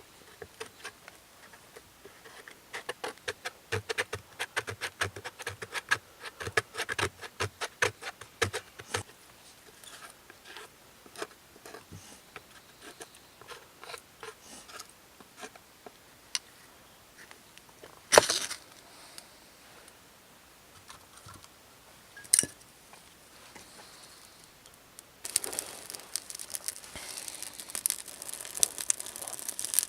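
Hands handling objects: a run of many quick small clicks and taps, then two sharp knocks some seconds apart, and near the end a steady crinkling, rustling noise.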